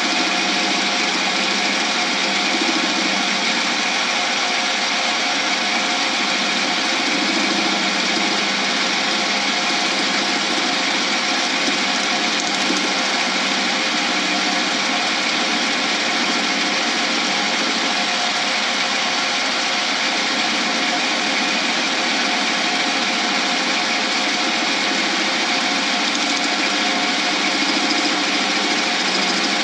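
Small metal lathe running steadily at constant speed, turning down a cast blank held in reverse chuck jaws, with a constant motor hum and whine.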